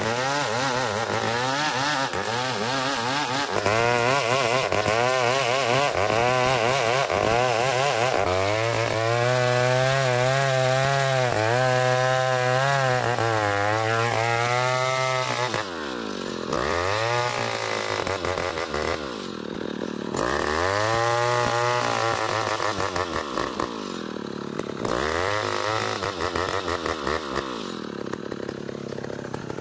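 Chainsaw cutting a small ulin (Borneo ironwood) log into a beam, the engine held at high revs for long stretches. In the second half the revs drop and climb back several times.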